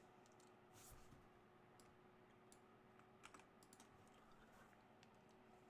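Faint computer keyboard keystrokes, a few scattered clicks at an uneven pace, over near-silent room tone.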